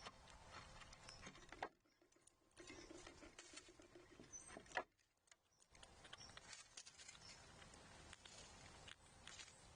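Faint scratching and tapping of squirrels and birds feeding at a feeding station, with a couple of sharper clicks and a few brief high chirps.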